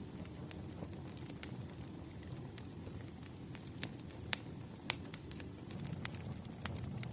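Burning firewood crackling: scattered sharp pops and snaps over a low steady rumble of the flames, with two louder pops close together a little past the middle.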